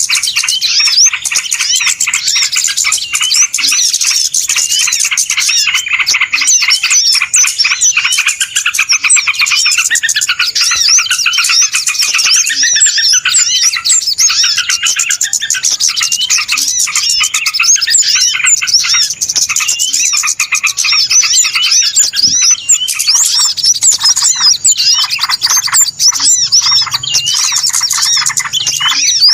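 Dense, unbroken chorus of many small birds chirping and twittering over one another, a busy, noisy flock sound. It is a bird-lure recording ('suara pikat burung ribut') made to draw small birds in.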